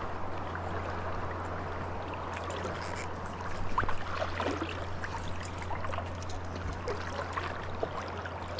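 River water flowing steadily, a continuous rushing and trickling, with a steady low hum underneath and a brief louder stir about four seconds in.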